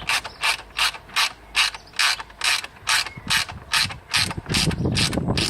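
Ratchet wrench clicking in a steady rhythm, about three strokes a second, as it turns down an M8 bolt with a 13 mm head, the last of four fixing the mitre saw to a ply board.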